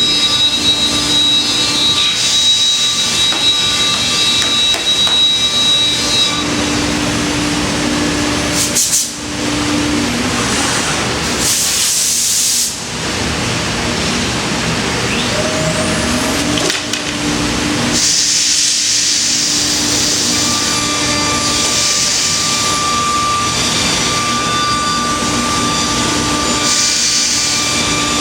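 C.R. Onsrud 5-axis CNC router spindle cutting wood: a steady whine over loud cutting noise. The level dips briefly about 9 and 13 seconds in, and a tone glides in pitch around the middle.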